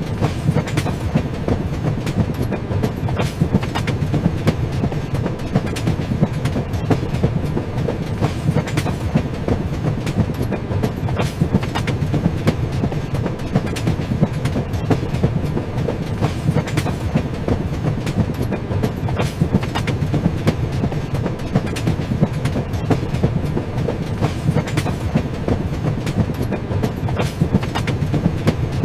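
Train running along the track: a steady low rumble with frequent sharp clicks of the wheels over the rails.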